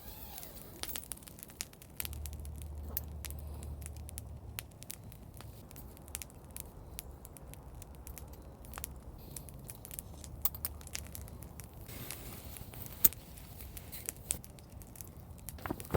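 Wood campfire crackling, with irregular sharp pops and snaps and one louder pop about thirteen seconds in, over a low steady rumble.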